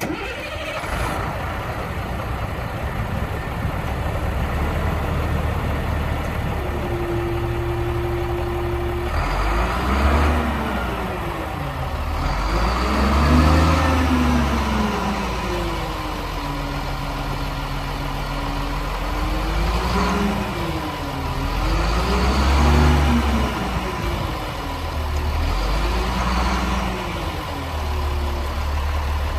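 Diesel engine of a 2006 Peterbilt dump truck, recently replaced, idling steadily and then revved up and let fall back to idle about five times.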